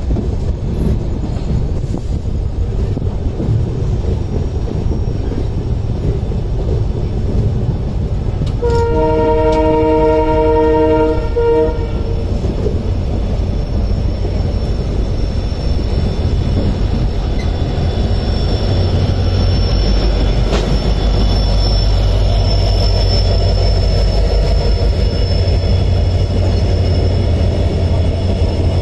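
Steady rumble and rail noise of a passenger train running, heard from its open doorway. About nine seconds in, the oncoming WDP4D diesel locomotive sounds its multi-tone horn in one blast of about three seconds. From about eighteen seconds a deeper engine rumble builds as the locomotive and its coaches pass on the adjacent track, with a faint high wheel squeal.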